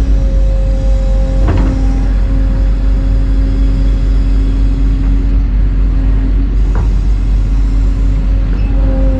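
Excavator's diesel engine running steadily with a constant hydraulic pump whine over a heavy low rumble. Two short knocks are heard, about a second and a half in and again about seven seconds in.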